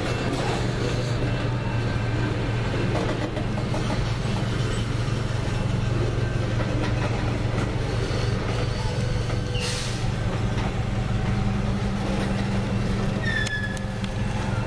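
Freight train of tank cars rolling steadily past a grade crossing, heard from inside a car, with a constant low rumble. There is a brief hiss about ten seconds in and a short high squeal near the end.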